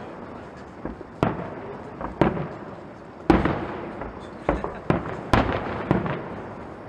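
Aerial fireworks shells bursting: about nine sharp bangs at irregular intervals, each trailing off, the loudest a little over three seconds in.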